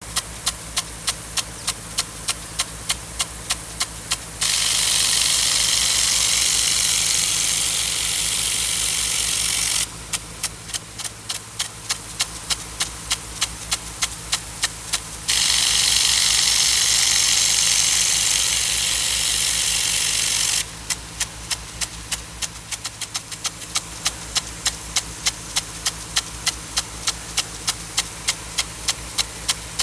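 Irrigation rain gun sprinkler running, its drive arm ticking about three times a second. Twice, for about five seconds each time, a loud hiss of water spray takes over as the jet sweeps past. A steady low hum runs underneath.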